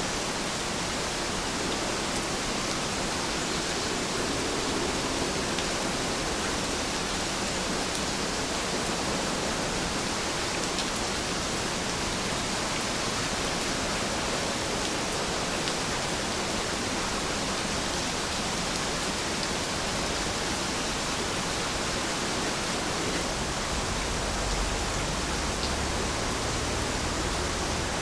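Heavy rain falling, a steady, dense hiss with scattered small drop ticks; a low rumble comes in near the end.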